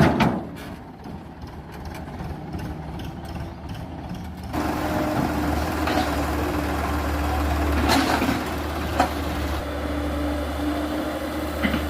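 Heavy vehicle engine running steadily, its hum growing louder and steadier about four and a half seconds in, with a few short knocks.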